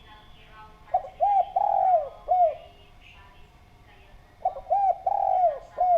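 Spotted dove (derkuku) cooing: two phrases, each of about four notes, two short, one longer, then a short closing note, the second phrase starting about three and a half seconds after the first.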